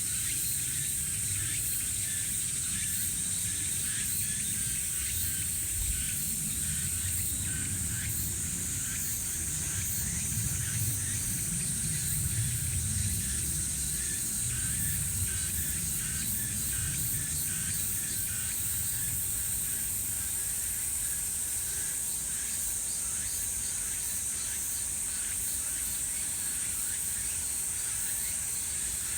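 A summer chorus of grass insects: a steady, high-pitched continuous buzz with fainter pulsing chirps beneath it, over a low, uneven rumble.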